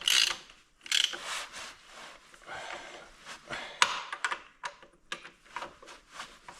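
Hand socket ratchet clicking through a couple of short strokes, snugging connecting-rod cap bolts hand-tight. Scattered sharp metallic clicks and taps of tools and parts being handled follow.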